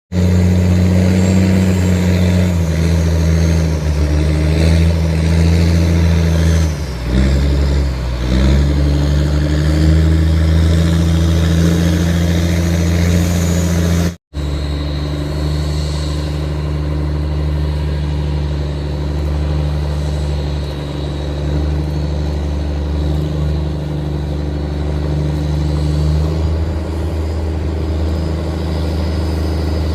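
Tugboat engine running hard under throttle, with a steady pitch that sags and climbs back about seven to eight seconds in. The sound breaks off for an instant near the middle, then the engine carries on evenly.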